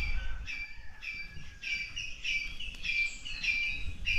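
A bird calling a short chirping note over and over at an even pace, about three calls a second.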